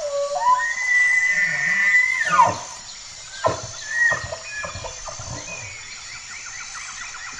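An animal's call: a long cry that steps up in pitch, holds for about two seconds and then falls away, followed about a second later by a few short chirps.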